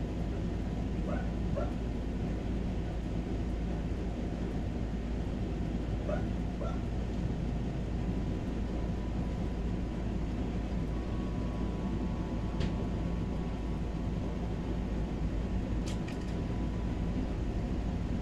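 A dog barking, two short barks about a second in and two more about six seconds in, over a steady low noise.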